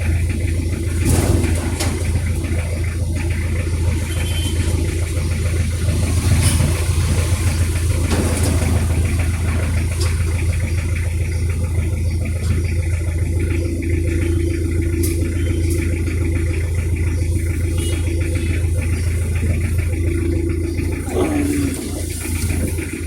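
Toyota 1C 1.8-litre four-cylinder diesel engine of a 1990 Corolla running steadily with an even low drone.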